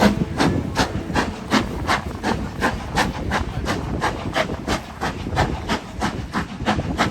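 Jacobite steam locomotive working hard, its exhaust chuffing in a steady rhythm of about three beats a second.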